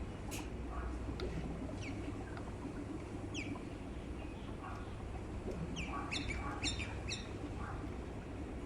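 Small bird chirping in short, quick falling notes, with a quick run of about five chirps just after the middle, over a steady low hum.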